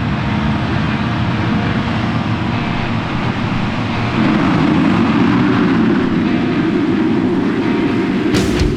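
A pack of motocross bikes running together, a dense engine racket that grows louder about four seconds in.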